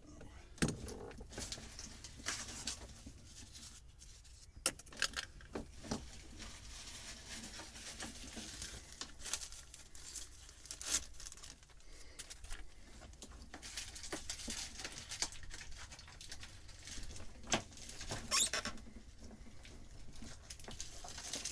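Rustling, crinkling and tearing of trash and debris being handled and pulled out by hand, with scattered light clicks and knocks of small objects.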